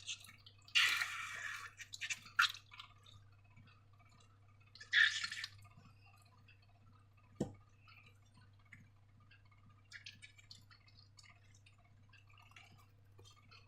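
Slime being handled: a few short, wet, sticky squishes about a second in and again at about five seconds, with scattered small clicks and one sharp tap at about seven and a half seconds.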